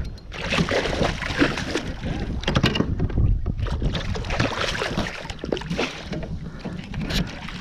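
Water splashing and sloshing around a fishing kayak as a hooked redfish is landed in shallow water, with wind buffeting the microphone.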